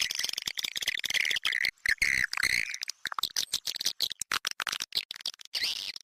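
Recorded swiftlet calls of the kind played to lure swiftlets to a nesting house: a dense run of rapid chirps and clicks, with a brief buzzy call about two seconds in.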